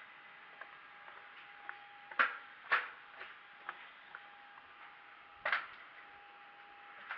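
A few sharp knocks and clicks, three of them louder, over a steady hum and hiss.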